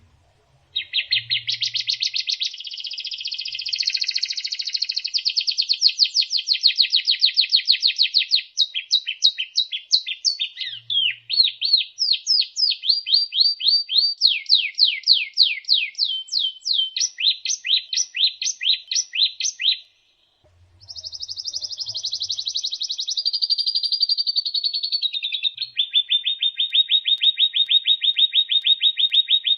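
Songbird singing long runs of rapid, repeated notes and trills, high-pitched, with a break of about a second some twenty seconds in before another trilled phrase.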